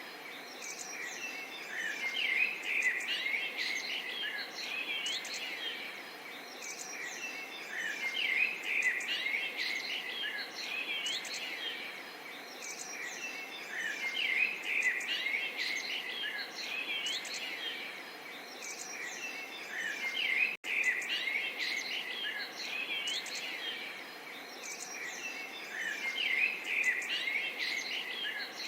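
A chorus of small songbirds chirping and singing, swelling and easing off about every six seconds, over a faint steady murmur of running water. The sound cuts out for an instant about twenty seconds in.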